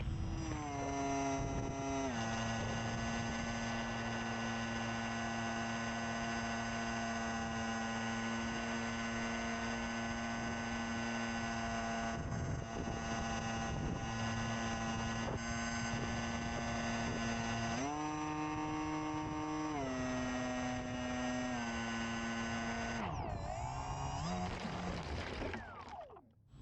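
RC airplane's electric motor and propeller whining, its pitch stepping with the throttle: down about two seconds in, up briefly around eighteen seconds, then down in steps. Near the end it winds down and cuts out as the throttle is closed for the landing.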